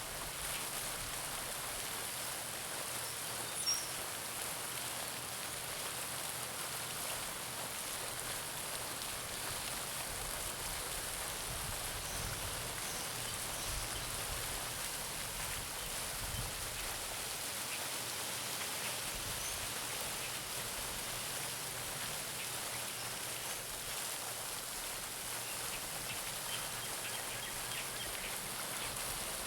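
Garden pond fountain splashing steadily into the water, a continuous even spatter. Faint bird chirps come through now and then, with one brief, slightly louder high sound about four seconds in.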